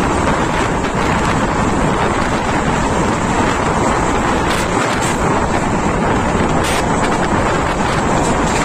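Steady rush of wind buffeting a microphone held out of a moving Indian Railways passenger coach's window, over the rumble of the train running along the track.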